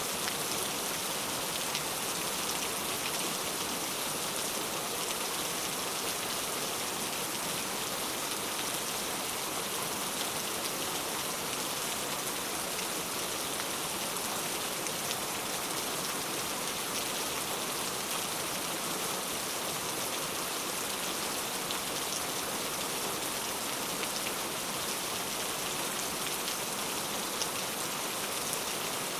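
Heavy rain falling steadily, a dense even hiss of drops on hard surfaces with fine individual drop ticks.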